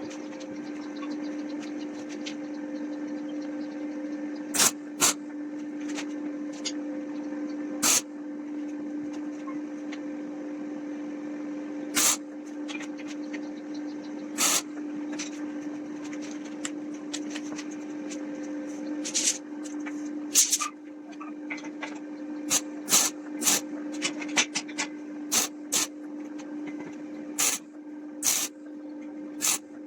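A steady mechanical hum, like a small electric motor running at a constant speed, with sharp knocks and clicks scattered over it. The knocks come more often in the second half.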